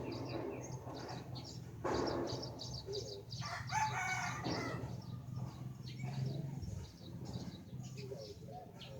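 Birds calling: repeated short high chirps, with one longer call of several pitches about three and a half seconds in. A low steady hum runs underneath.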